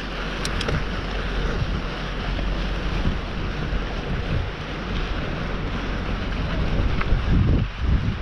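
Wind rushing over the microphone and the rumble of a mountain bike rolling down a dirt trail, with a few sharp clicks just after the start and heavier thumps from bumps about seven to eight seconds in.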